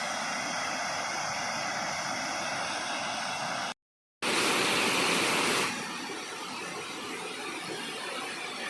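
Waterfall rushing steadily. It cuts out completely for about half a second just before the middle, comes back louder for about a second and a half, then settles to a steady rush.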